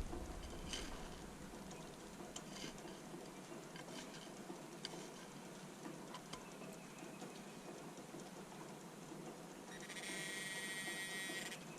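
Faint scattered ticks and taps. About ten seconds in, a metal detector gives a buzzy electronic tone over a target for about a second and a half, then cuts off.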